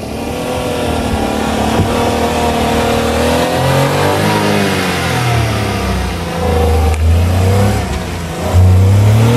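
Maruti Suzuki Celerio's 1.0-litre three-cylinder petrol engine revving hard under full throttle as the car climbs a steep sand slope with its front wheels spinning and throwing up sand. The engine note rises and falls repeatedly as the wheels scrabble for grip and is loudest near the end.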